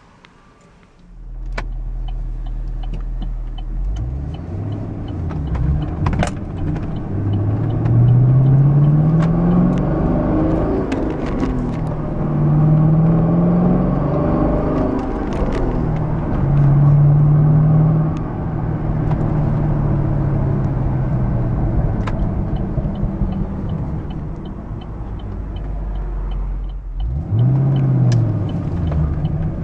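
2011 Chevrolet Camaro SS's 6.2-litre LS3 V8 heard from inside the cabin. It starts with a low idle about a second and a half in, then accelerates, its note climbing and dropping through several gear changes before settling into a steadier cruise. Near the end it dips briefly and rises again. A faint, regular light ticking runs underneath.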